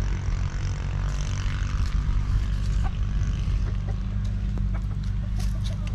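Old desi diesel engine running steadily with a regular low pulsing beat.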